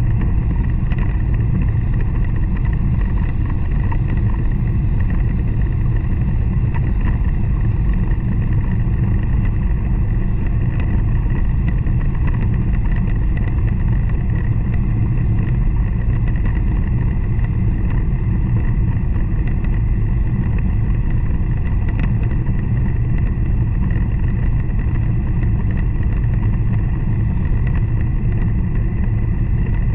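N700 series Shinkansen running at speed, heard from inside the passenger car: a loud, steady deep rumble with a faint steady high whine above it.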